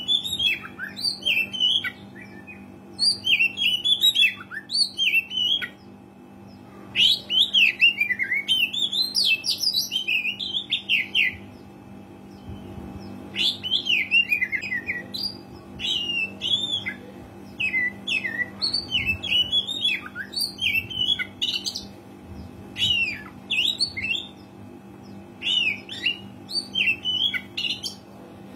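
Oriental magpie-robin (kacer) singing actively: phrases of fast, varied whistled and chattering notes with short pauses between them, over a steady low hum.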